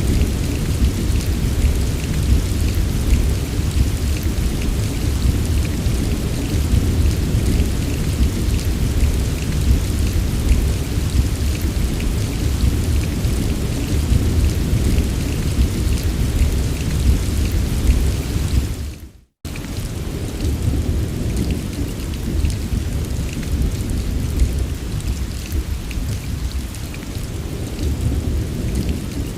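Heavy steady rain with a continuous deep low rumble under the patter. About two-thirds of the way through it fades out to a moment of silence and cuts straight back in, the seam of a looped recording.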